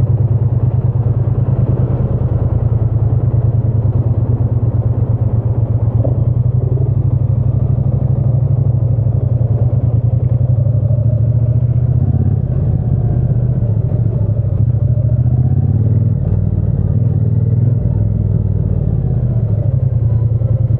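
Triumph Bonneville T120's 1200 cc parallel-twin engine and exhaust running under way at a steady, even throttle, a deep low pulsing throb. The low throb shifts a little about midway, then settles.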